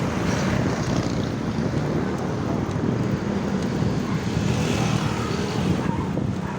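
Wind rushing over the microphone while riding in traffic, with steady road and vehicle noise underneath.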